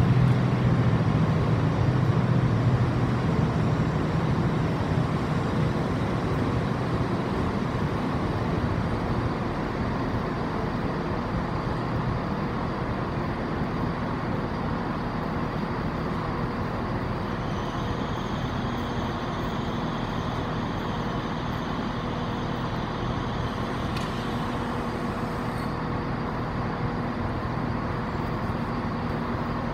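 Passenger trains running through a large covered station: a low hum and rumble, loudest at the start, eases away over the first ten seconds and settles to a steady background noise. A thin high whine joins for several seconds past the middle, with a single sharp click near its end.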